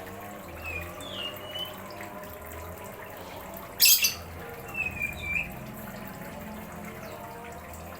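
Caged songbirds giving a few short chirps, twice in small groups, over steady running water. A single sharp click just before the middle is the loudest sound.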